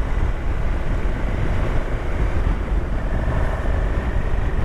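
Wind rushing over the camera microphone on a moving motorcycle, with the bike's engine running underneath: a loud, steady, deep rumble.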